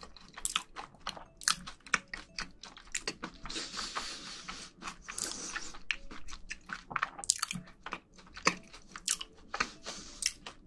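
A person chewing food close to the microphones: a quick run of crunching and clicking mouth sounds, with a longer noisy stretch about four to five seconds in.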